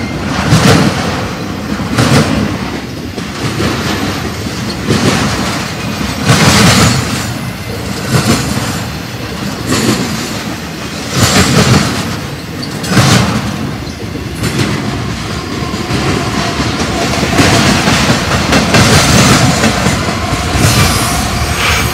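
Intermodal freight train cars rolling past close by at speed, their steel wheels clattering over the rails. The clatter surges every second or two as each set of wheels goes by.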